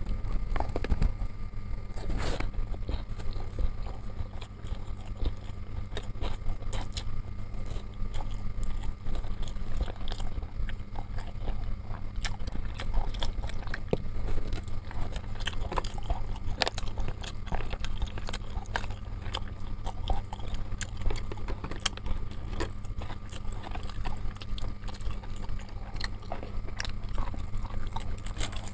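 Close-up chewing of chicken satay and rice, with many small mouth clicks, over a steady low hum. A paper food wrapper rustles near the end.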